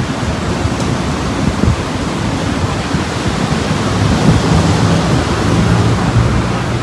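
Strong storm wind buffeting the microphone over rough sea surf: a loud, continuous rush of noise. A low steady hum joins about four seconds in.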